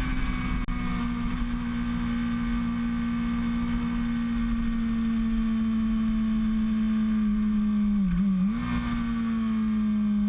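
Motorcycle engine running at steady high revs, its pitch slowly sagging, with a brief sharp dip and recovery about eight seconds in.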